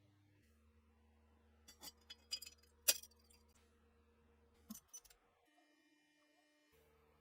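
Sharp metallic clicks and clinks of small metal parts being handled: a quick cluster about two to three seconds in and a couple more near five seconds, over a faint steady hum.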